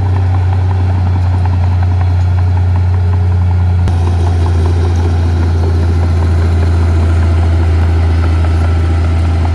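Heavy diesel engine of earth-moving equipment running steadily with a deep, constant hum; the sound shifts slightly about four seconds in.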